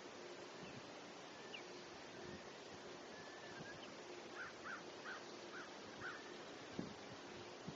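A bird giving five short, evenly spaced calls in quick succession, faint over a steady outdoor hiss, with a soft low thump near the end.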